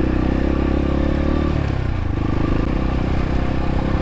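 X-Pro Templar X 250 dirt bike engine running under way on a trail, its note dipping about halfway through as the throttle changes, then carrying on steadily.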